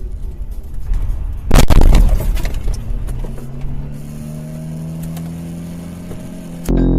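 Car running with road rumble, then a sudden loud collision impact about a second and a half in, crunching and rattling for about half a second. A steady low tone follows, rising slightly in pitch, and music cuts in near the end.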